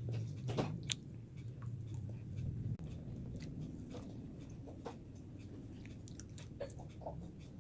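A person chewing and biting food, with many small scattered clicks of the mouth and a low hum during the first three seconds.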